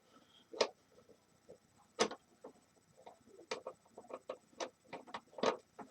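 Irregular sharp clicks and light knocks of a screwdriver and small plastic and metal parts being handled as screws are taken out of a space heater's casing.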